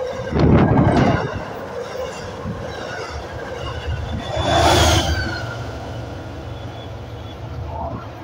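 MBTA commuter rail train of bi-level coaches passing close by at speed, wheels rumbling on the rails. There is a louder burst of noise about halfway through, and the sound fades toward the end as the last coach moves off.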